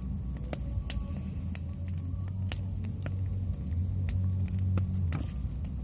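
Large wood campfire burning, with sharp irregular crackles and pops, roughly one or two a second, over a steady low rumble.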